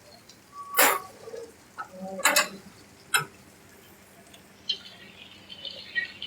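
Cleaning gear knocking and clacking during hand-washing of an aircraft: three or four sharp knocks in the first few seconds, the second a quick double, then a faint scratchy hiss with small ticks from about two-thirds of the way in.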